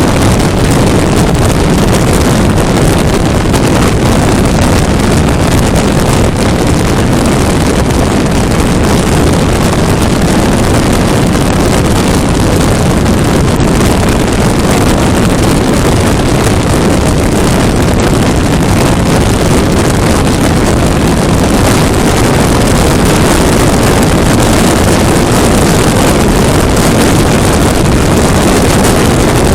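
Loud, steady wind rush buffeting the microphone on a 400cc motorcycle at highway speed, with the bike's engine and road noise mixed in underneath.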